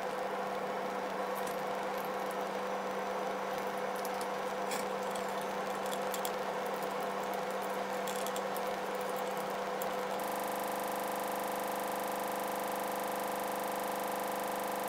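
A steady hum with fixed tones and a few faint clicks and taps. About ten seconds in it changes abruptly to an even, unchanging hum.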